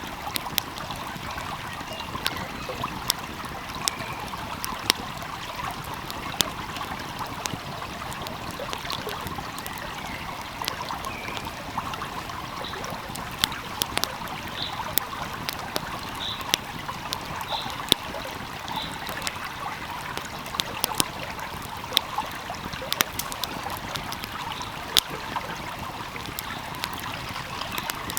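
Wood fire crackling with frequent, irregular sharp pops over the steady rush of a flowing stream.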